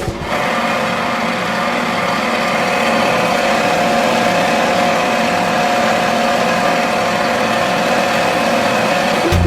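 A small motor running steadily, a constant whine over an even hiss.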